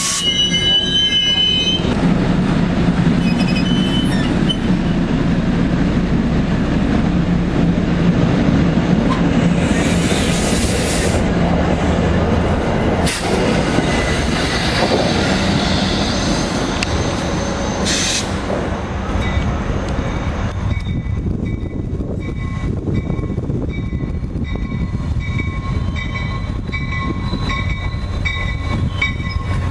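NJ Transit commuter coaches rolling past at close range, a steady rumble of wheels on rail with short squeals and hisses. About twenty seconds in the rumble falls away and a ringing tone repeats about once a second as another train approaches.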